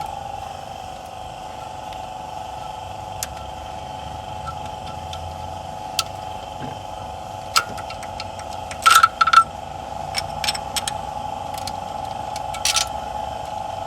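A steady machine hum made of a few close tones, broken by scattered metallic clinks of hand tools on engine parts. The loudest are a quick cluster of clanks about nine seconds in.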